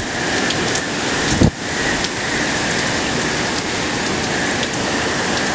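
Heavy hurricane rain falling steadily, with a brief low thump about a second and a half in.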